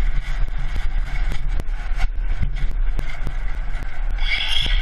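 Car cabin noise picked up by a dash cam while driving: a steady low road and engine rumble, with frequent sharp clicks and ticks. A higher hiss comes in about four seconds in.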